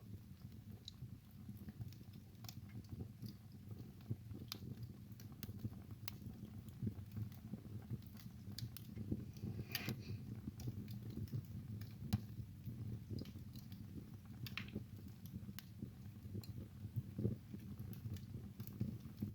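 Wood fire burning in a fireplace: sharp pops and crackles at irregular intervals over a low steady rumble of flame.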